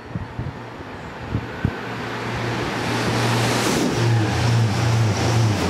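Express passenger train approaching and passing beneath at speed: a rushing wheel-and-air noise that swells over a few seconds, with a steady low hum that breaks into short pulses as the train goes under. Wind buffets the microphone in the first two seconds.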